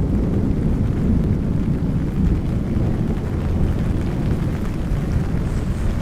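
Steady low rumble of a rainy city street, an even noise without distinct events.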